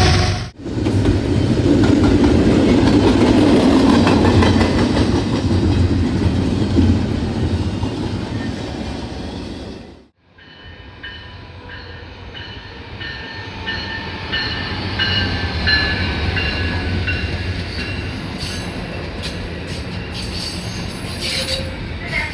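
Train rolling along the tracks, wheels clicking over the rail joints. The sound breaks off abruptly twice; after the break about ten seconds in it is quieter, with high thin tones ringing above the rumble.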